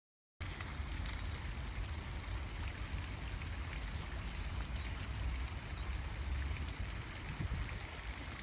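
Wind buffeting the microphone: a steady rushing noise with a heavy, fluctuating low rumble that cuts in abruptly just after the start.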